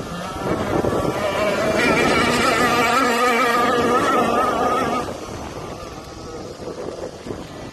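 Radio-controlled power boat's motor running at speed with a wavering buzz, loudest over the middle few seconds. It drops away sharply about five seconds in.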